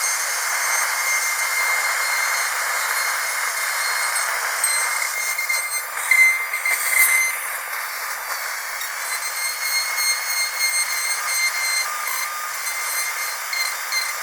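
Dental drill whining, a high-pitched steady tone over hiss, with a brief louder surge about halfway through.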